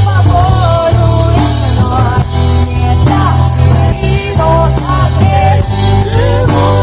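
A band playing a pop-rock song, with a strong, steady bass and a gliding melody line over it.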